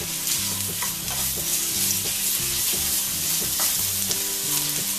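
Crushed ginger, garlic and green chilli paste sizzling in hot vegetable oil in a non-stick pan, stirred with a wooden spatula. It is a steady frying hiss with light strokes of the spatula.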